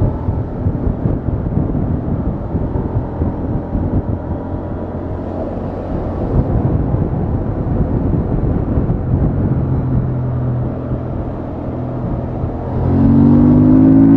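Honda XL750 Transalp's parallel-twin engine through its stock exhaust, running steadily at cruise. About thirteen seconds in the throttle opens: the sound gets louder and the engine note climbs as the bike accelerates.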